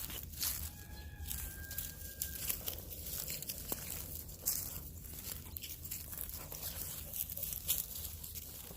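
Footsteps crunching underfoot in an irregular walking rhythm, with a faint thin tone about half a second to two and a half seconds in.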